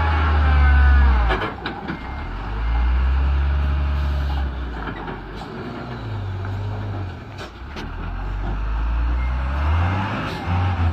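Hino truck's diesel engine running, its low note dropping and rising several times, with a few sharp clicks.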